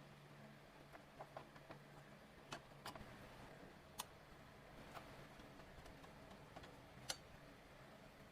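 Near silence: faint room tone with a few scattered light clicks, the sharpest about four and seven seconds in.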